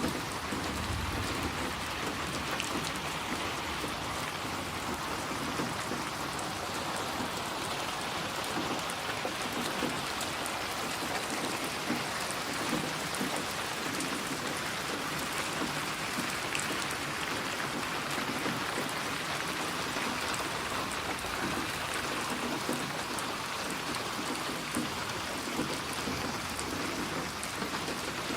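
Steady rain falling, an even hiss of many drops pattering on a surface, with a brief low rumble about a second in.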